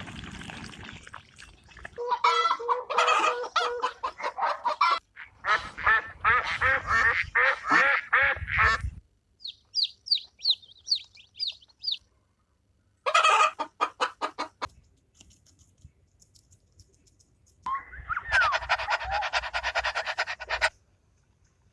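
Domestic fowl calling in several separate bursts: repeated clucking and honking calls, then a quick run of short, high peeps.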